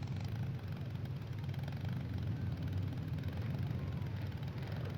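Steady low rumble of demolition derby car engines running in the arena, with no distinct impacts.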